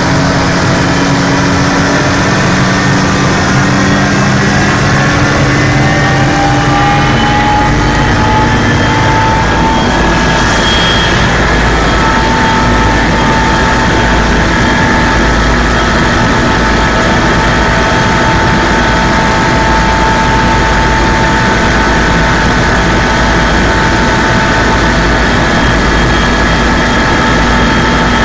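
Helicopter turbine engine and rotor running loudly and steadily. Its whine rises in pitch over the first part and then holds steady.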